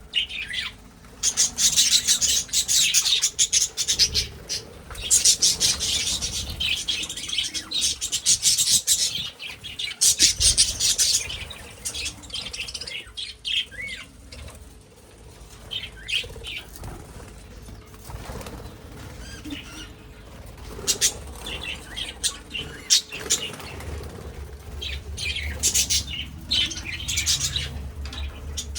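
Budgies flapping their wings in bursts, with chirping among them. The loudest stretches come about a second in, around 5 to 9 seconds in, and again after about 20 seconds.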